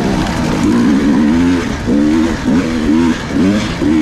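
Dirt bike engine on an enduro trail ride, revving up and down repeatedly as the throttle is worked, its pitch rising and falling several times over a steady low rumble.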